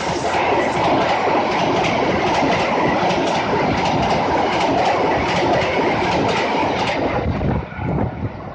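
Argo Dwipangga express passenger train rushing past at speed, its wheels clacking rhythmically over the rail joints amid a loud rushing noise. The sound drops off sharply about seven seconds in.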